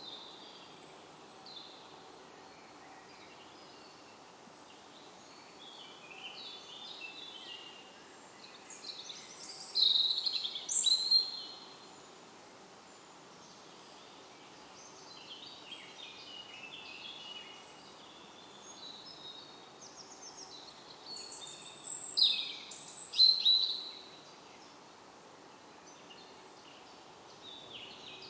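Woodland birdsong: several small songbirds chirping and warbling faintly throughout. One bird sings a loud, rapid song phrase of about three seconds, about a third of the way in, and again about three-quarters of the way through.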